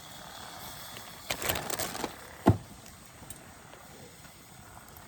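Handling noises by the campfire: a short burst of scraping and clattering a little over a second in, then one sharp knock at about two and a half seconds.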